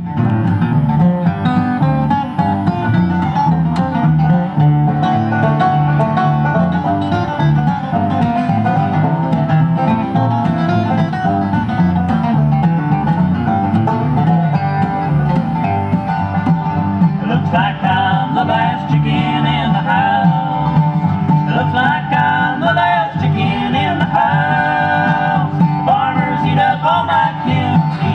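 Bluegrass band playing an instrumental opening with banjo and guitar over a steady beat. From about 17 s in, a higher, sliding melody line joins above the picking.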